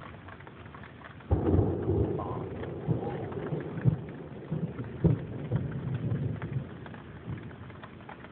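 Thunder from a nearby lightning strike: a low rumble breaks in suddenly about a second in and rolls on, slowly fading over several seconds, over steady rain with a few sharp ticks of drops.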